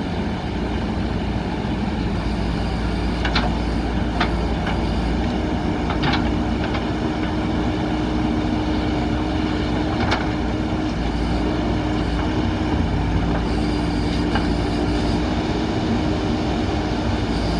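JCB backhoe loader's diesel engine running steadily under working load, with a few short, sharp metallic knocks between about three and ten seconds in.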